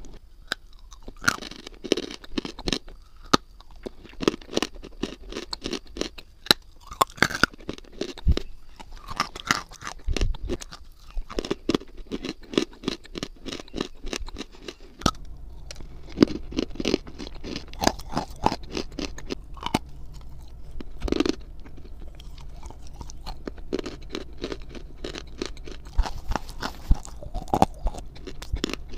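Close-miked chewing of a mouthful of crunchy eating clay, a dense run of sharp, irregular crunches, right at a small handheld microphone.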